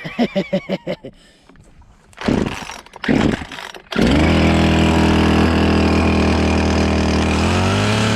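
Chainsaw cold-started by pull cord: a few short sputters and pulls, then the two-stroke engine catches about four seconds in and runs at a steady idle, starting to rev right at the end.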